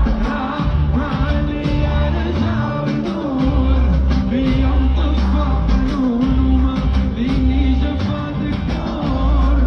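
A man singing an Arabic song with a wavering, ornamented voice over a band accompaniment with heavy bass.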